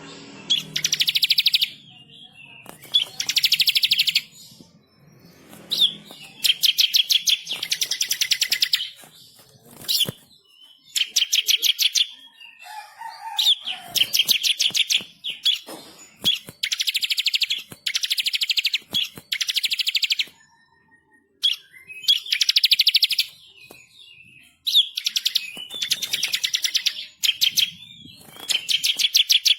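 Ciblek kristal (bar-winged prinia) singing hard: about a dozen bursts of fast, rolling trills, each one to three seconds long, with short gaps between them filled by a few scattered chips.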